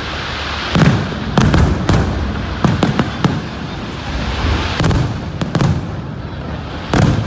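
Aerial fireworks display: shells bursting in a rapid run of about ten booms, several in quick clusters, over a steady noisy haze.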